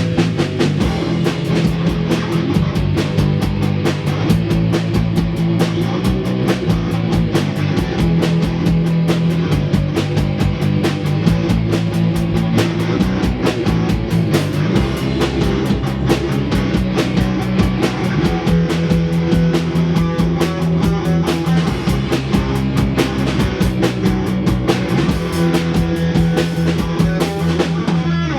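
Live band rehearsal of an instrumental fusion number: guitar playing over a drum kit, with fast, even cymbal strokes.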